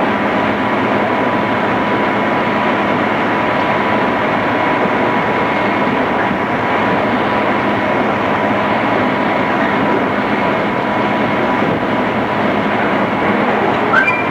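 Interior running sound of a JR East 211 series electric train travelling at a steady speed: an even rumble from the car with a faint constant whine, and a brief knock near the end.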